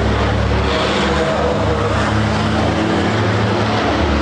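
Diesel engines of racing trucks running under power, a steady, loud low drone without a break.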